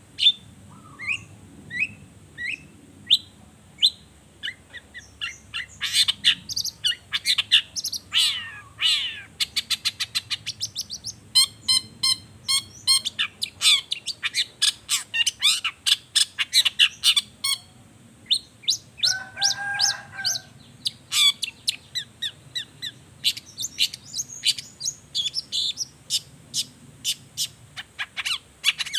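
Long-tailed shrike (cendet) singing a loud, varied song. It opens with separate, spaced sharp chirps, then from about six seconds in breaks into rapid runs of chirps, trills and fast repeated notes. A lower, harsher call comes briefly about two-thirds of the way through.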